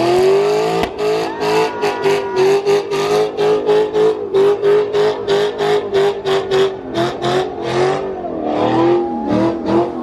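Ford Mustang V8 held at high revs during a smoky burnout, the engine note stuttering in an even rhythm about four times a second as it bounces off the rev limiter. The revs dip and climb again near the end.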